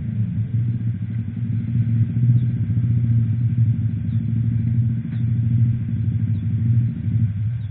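Motorcycle engine running at a steady pitch while riding, a low hum whose upper tone drops away and loudness falls near the end.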